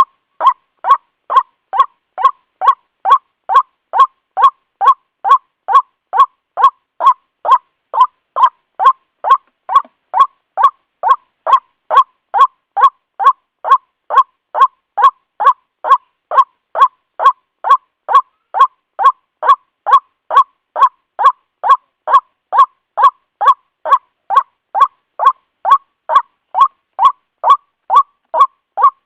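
White-breasted waterhen (ruak-ruak) call: one short note repeated about twice a second, evenly spaced and unchanging, with silence between notes, as in a looped call recording.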